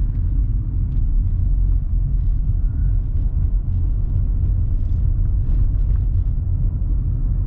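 Steady low rumble of a vehicle being driven, heard from inside the cabin: engine and road noise.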